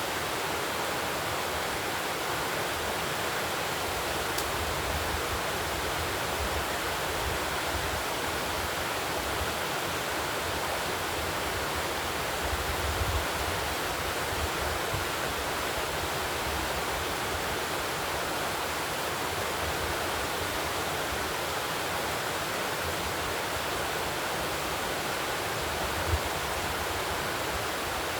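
Steady rushing noise, even throughout, with a few brief low bumps, the largest about 13 and 26 seconds in.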